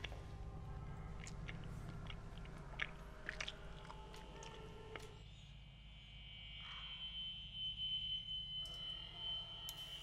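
A man chewing pizza, with small clicks of biting and mouth sounds over a steady low hum. About halfway through the eating sounds stop and a steady high-pitched tone comes in.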